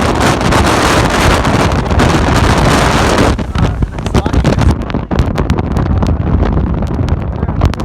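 Strong hurricane wind blasting across the microphone, a loud dense rush with low rumbling buffeting. About three seconds in it eases slightly and becomes gustier and choppier.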